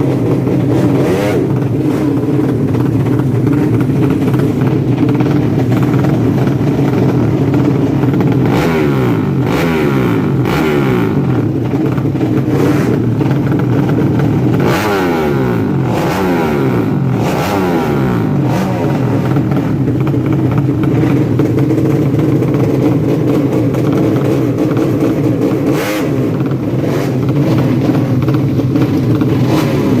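Four-stroke drag-racing motorcycle engines running loud and steady, with bouts of revving that rise and fall in pitch partway through.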